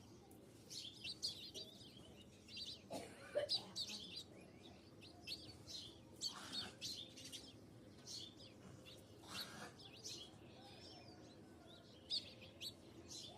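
Small birds chirping and twittering: many short, high calls scattered throughout, the loudest about three seconds in.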